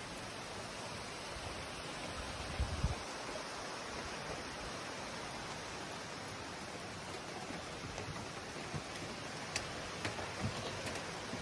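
Steady hiss of rain falling, with a short low thump about two and a half seconds in and a few sharp ticks near the end.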